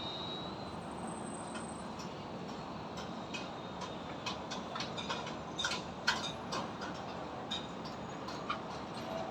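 Construction site ambience: a steady rumble of traffic with irregular sharp taps and clinks, a few a second, the loudest a little past the middle.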